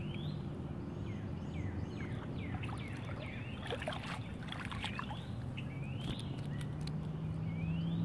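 Birds chirping in short rising and falling calls over a steady low hum, with a few light clicks.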